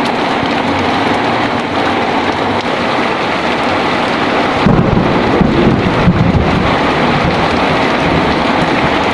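Heavy rain falling steadily, with a low roll of thunder about halfway through that rumbles for about two seconds.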